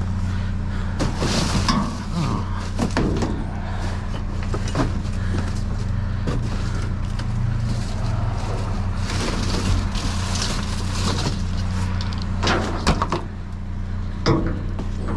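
A vehicle engine idling steadily, under a run of knocks, rattles and clatter from objects being handled, with the sharpest knocks near the end.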